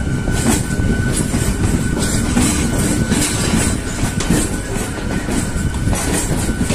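Indian Railways EMU local train passing close by, its wheels rumbling and clacking over the rail joints, with a steady thin whine running underneath.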